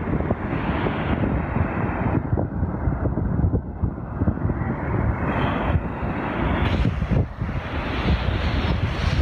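Strong wind buffeting the microphone in a ragged low rumble, with the sea's surf washing in behind it.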